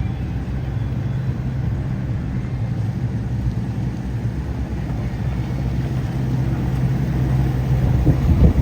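Steady low engine rumble with a held hum.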